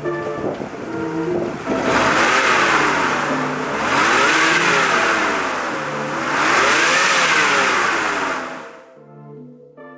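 Fuel-injected 5.8-litre Ford V8 in a 1956 Ford F100 restomod, blipped twice, the pitch climbing and falling back each time, then cutting off sharply near the end.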